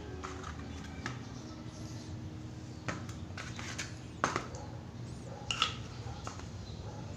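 A few sharp knocks and clinks of hard objects being handled, the loudest about four and about five and a half seconds in, over a low steady hum.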